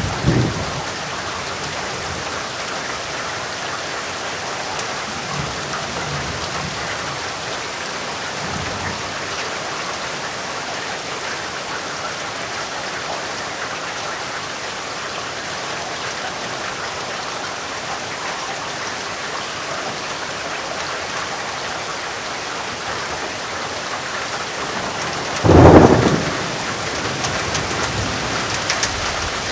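Steady rain, with a loud thunderclap near the end and fainter low thunder rumbles near the start.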